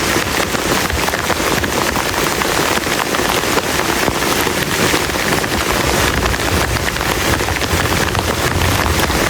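Heavy rain falling steadily, a dense patter of drops striking a plastic camp tarp.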